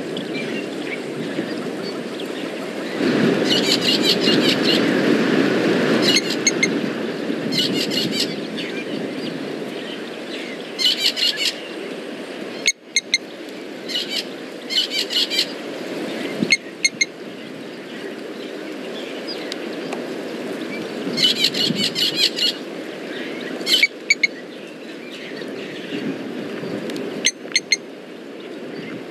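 Wild birds calling in short bursts of rapid, repeated chirps, again and again, over a steady low background rush. The sound briefly cuts out about thirteen seconds in.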